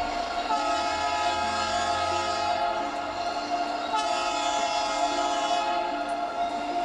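Diesel locomotive multi-chime air horn sounding two long blasts, the first about half a second in and the second about three and a half seconds later, with a low rumble under the first.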